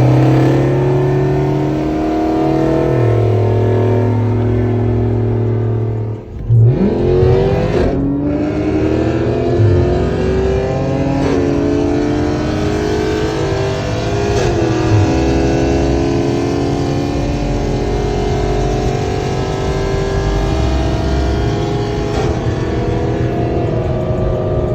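Car engine cruising steadily at low revs, then going to full throttle about six seconds in and accelerating hard from a 40 mph roll. The pitch climbs with each gear and drops back at upshifts around 11, 15 and 22 seconds in.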